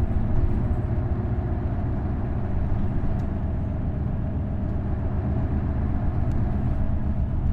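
Isuzu Erga route bus's V8 diesel engine running steadily while the bus is under way, a continuous low drone.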